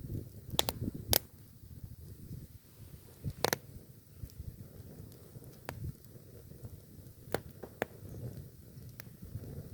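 Campfire burning: wood crackling with sharp, irregular pops, the loudest about a second in and again around three and a half seconds, over a low rumble of flame.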